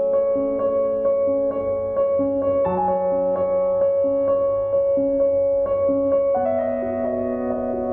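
Background music: a gentle piano piece with a repeating pattern of soft notes over held chords, the harmony shifting about six and a half seconds in.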